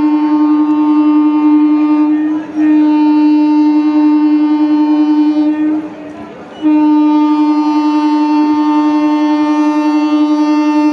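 Train horn sounding long, steady, single-pitched blasts: one ends about two seconds in, a second lasts about three seconds, and a third starts just before seven seconds in and is still sounding at the end.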